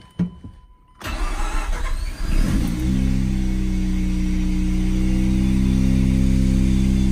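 A Mazda RX-8's twin-rotor Renesis rotary engine starting for the first time after a clutch replacement. There is a brief thump, then the engine catches about a second in, revs up briefly, and settles into a steady fast idle.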